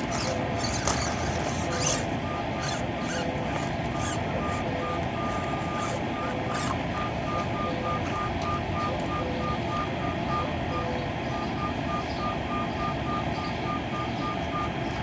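Electric drive of a 1/24-scale Axial SCX24 micro RC rock crawler whining in short on-off pulses, a high tone several times a second as the throttle is feathered, with a few sharp clicks over a steady background rush.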